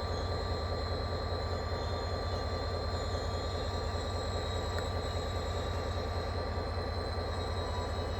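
A train running past with a steady, dense low rumble and a faint, steady high whine above it.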